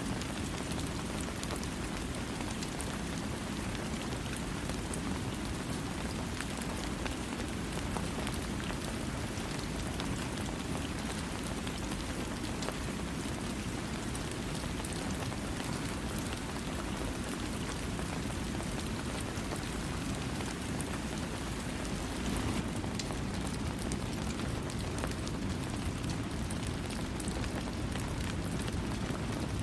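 Steady rain falling on a surface, a constant dense patter of drops with a deeper rushing underneath, no thunder.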